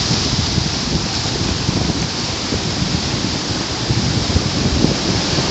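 Mediterranean sea surf washing steadily on the shore, with wind rumbling on the microphone.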